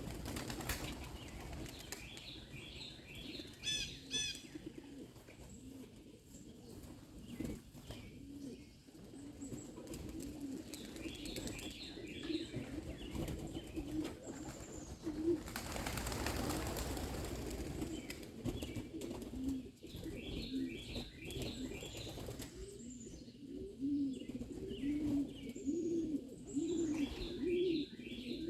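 Homing pigeons cooing, with a rush of flapping wings about halfway through and short runs of high bird chirps throughout.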